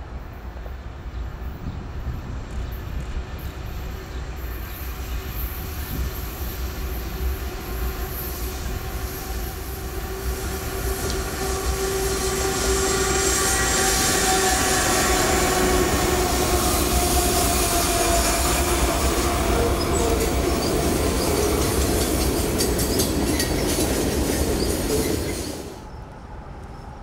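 Freight train led by CN 3023, a GE ET44AC diesel locomotive, approaching and rolling past, growing louder until about halfway through and then staying loud. Steady wheel squeal from the curved track sits over the rumble of the engines and wheels. Near the end it cuts off suddenly to quiet outdoor background.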